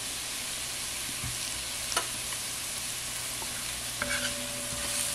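Onion, garlic, pimento peppers and turmeric frying in oil in a cast iron pot, a steady sizzle, while a metal slotted spoon stirs and scrapes through them, with one sharp click of the spoon about two seconds in.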